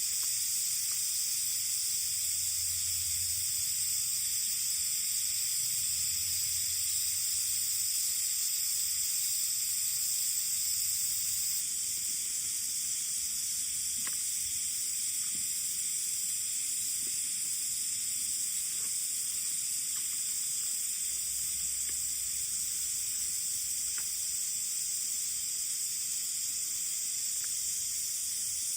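A steady high-pitched hiss, with a few faint crackles here and there.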